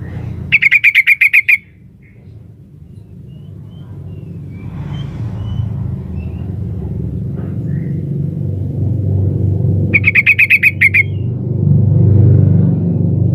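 Female yellow-vented bulbul (trucukan) giving its call to attract a male: two quick bursts of rapid chattering notes, about a second each, one at the start and one about ten seconds later, over a steady low rumble.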